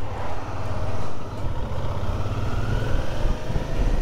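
Suzuki V-Strom 650's V-twin engine accelerating under way, its pitch rising steadily as the revs climb.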